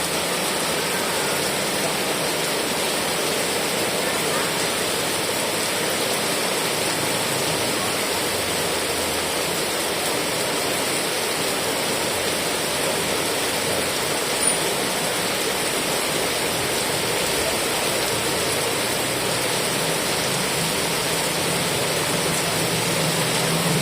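Heavy rain falling steadily: a dense, even hiss with no separate drops or pauses.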